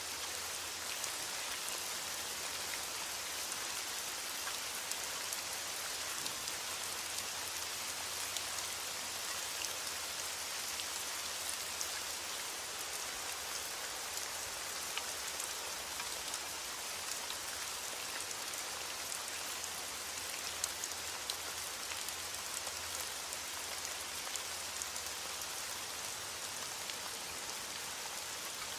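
Heavy rain hitting a window pane, a steady dense patter with scattered small sharp ticks.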